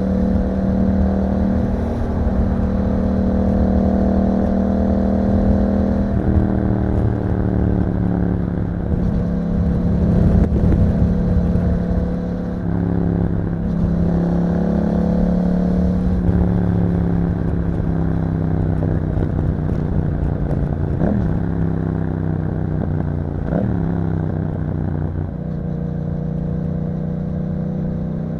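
2021 Yamaha MT-07's parallel-twin engine running through an Akrapovic exhaust under way, the engine note stepping up and down several times with throttle changes and gear shifts, and two quick revs about three quarters of the way through.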